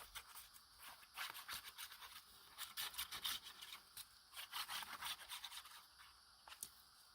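Faint, irregular rustling and scratching with small clicks as paper and craft supplies are handled, in two loose flurries.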